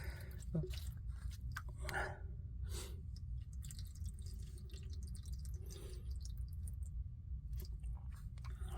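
Faint handling noises of the furnace's plastic condensate drain parts: small clicks, taps and soft rustles scattered through, over a low steady hum.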